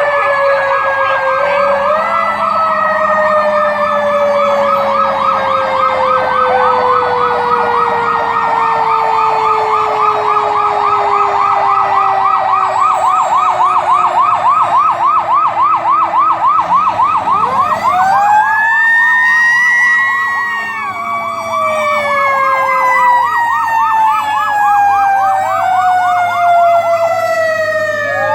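Several fire-truck and emergency-vehicle sirens sounding together. A fast warbling yelp runs over a lower tone that slowly falls, and about two-thirds of the way in slower rising-and-falling wails take over.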